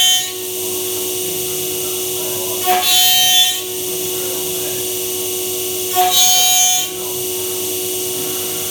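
MAKA 5-axis CNC machining centre running with a steady whine, rising to a louder, harsher, hissing stretch of under a second about every three seconds, twice in a row.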